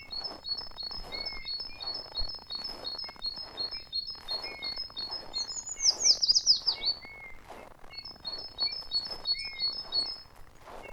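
Small songbirds singing: a fast, even run of high repeated chirps, a louder falling trill about six seconds in, then the chirping run starts again, with lower chirps mixed in.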